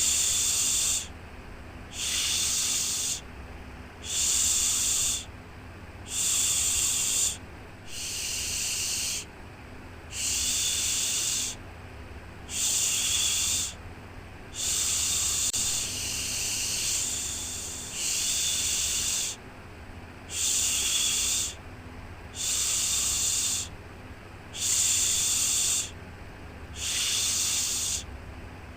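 Shushing 'shhh' sound for soothing a baby, repeated in even pulses: a hiss of about a second, then a softer gap, about one every two seconds. A faint steady low hum lies underneath.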